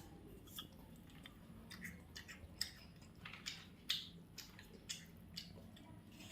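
White parrot nibbling and chewing food with its beak: faint, irregular small clicks and crunches, one after another at no steady rhythm.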